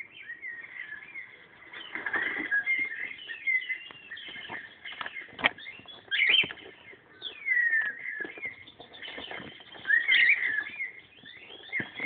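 Birds chirping and whistling: a steady run of short chirps and gliding whistles, some falling sharply in pitch, with scattered sharp clicks.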